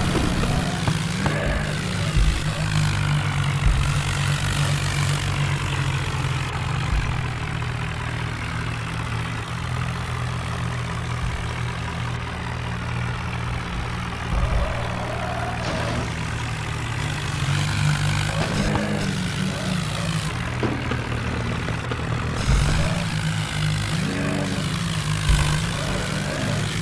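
Tractor engine running steadily with a low, even drone, its pitch briefly rising and falling a few times.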